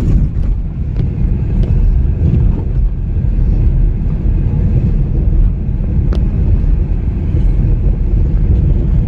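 Car driving on a rough dirt road, heard from inside: a steady low rumble of engine and tyres, with a few sharp knocks and rattles as it goes over the uneven surface.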